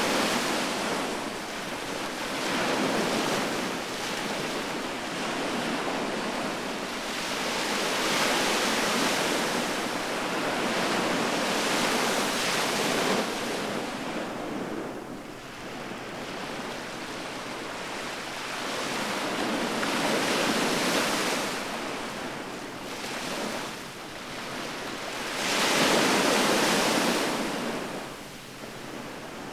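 Sea waves breaking and washing up the shore, each surge building into a loud rush and drawing back every few seconds; the biggest break comes a few seconds before the end.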